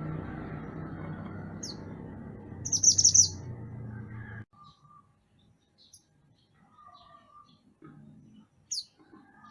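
Mantenan gunung songbird calling: short sharp high chirps, with a loud quick burst of several notes about three seconds in and another sharp call near the end, over a low background rumble that cuts off abruptly halfway through.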